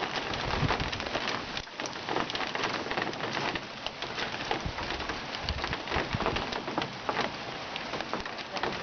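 Heavy rain falling steadily on a surface, with many sharp individual hits of drops throughout.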